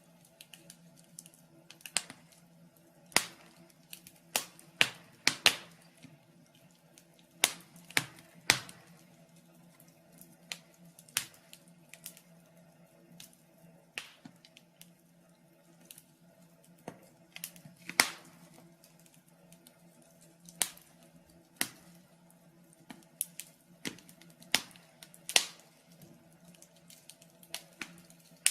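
Wood fire in a fireplace crackling, with irregular sharp pops about once or twice a second, one louder pop near the middle, over a faint steady hum.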